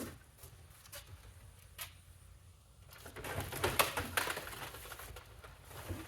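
Handling noise from plastic vacuum cleaners and parts. There are a few single clicks at first, then a busier stretch of clattering and rattling about three seconds in.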